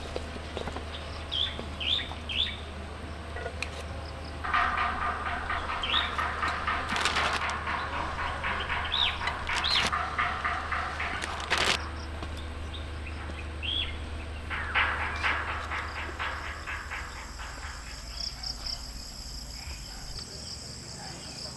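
Birds calling outdoors: short chirps recur throughout, with a denser stretch of rapid chattering calls in the middle. Near the end, a steady high insect trill, like crickets, sets in over a low hum.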